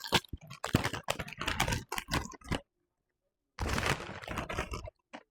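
Loud, close crunching of Doritos tortilla chips being chewed, in two stretches with a break of about a second midway.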